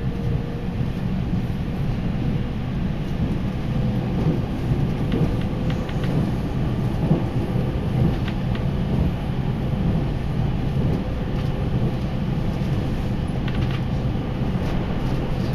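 Chūō Main Line local train running at speed, heard from inside the carriage: a steady low rumble of wheels on rail with a faint constant hum and a few light ticks.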